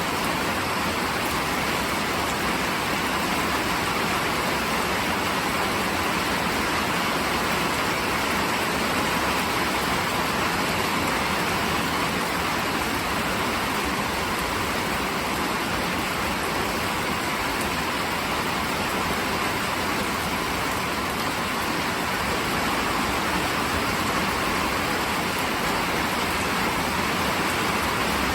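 Steady heavy rain falling, an even hiss with no thunder claps and no change in loudness.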